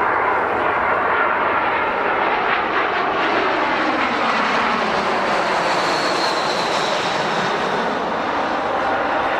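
Airliner engines running loud and steady, a dense rushing noise, with a faint high whine about six seconds in.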